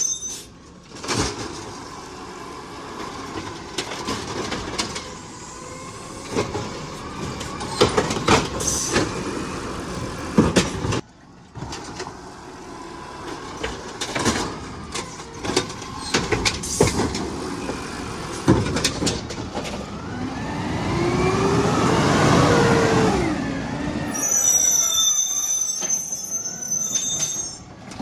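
Garbage truck at work: a run of knocks and clanks, then the engine revs up and back down for a few seconds, with a high squeal near the end.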